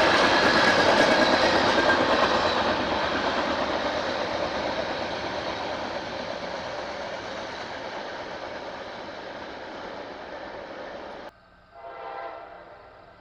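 Train rolling past a grade crossing, its noise fading steadily as it moves away. After an abrupt cut, a locomotive horn sounds briefly near the end and fades.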